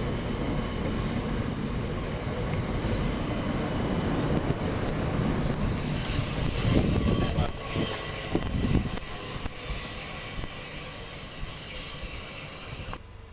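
Class 375 Electrostar electric multiple unit running through the station: a steady rush of wheel and motor noise with a faint whine. It grows loudest about seven to nine seconds in, then fades away.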